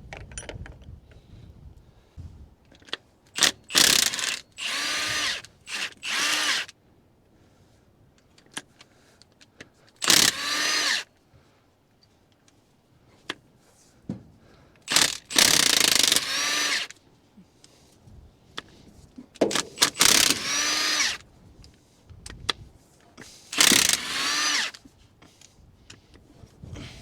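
Handheld power driver spinning off rocker and cylinder-head bolts on a small-block Chevy V8, in about eight short bursts of whining motor, each rising in pitch as it spins up, with pauses between them.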